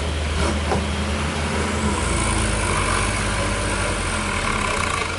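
Heavy truck engine running steadily, its low hum dropping to a deeper note about two seconds in.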